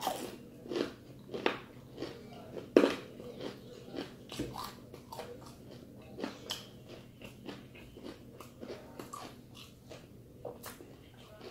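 Close-up crunching and chewing of crispy deep-fried chicken skin. A few loud crunching bites come in the first three seconds, then lighter crunches as it is chewed.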